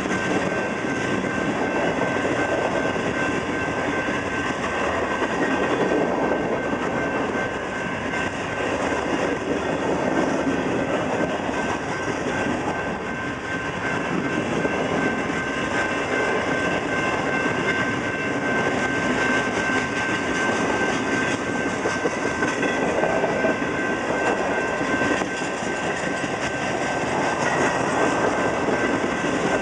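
Freight train of tank cars and covered hoppers rolling slowly past: steady rumble and clatter of steel wheels over the rails, with a thin, steady high-pitched whine over it.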